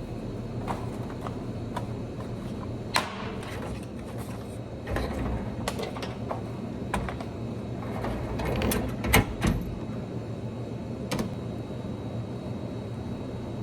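Scattered clicks and light knocks, the loudest about three seconds and nine seconds in, over a steady low hum.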